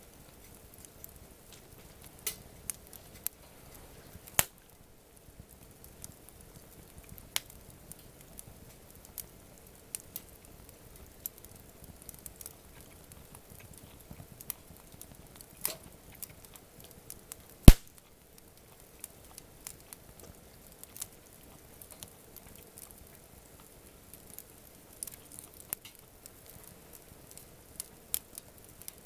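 Wood campfire crackling: scattered small pops and snaps over a faint hiss, with a sharp pop about four seconds in and the loudest snap at about eighteen seconds.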